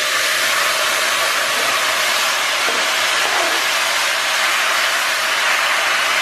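Diced tomatoes sizzling in a hot Dutch oven of onions, garlic and herbs in oil as they go in and are stirred: a steady hiss.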